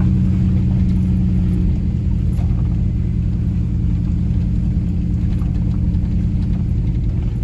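Truck engine pulling steadily up a steep hill at low speed, heard from inside the cab; its note changes slightly about two seconds in.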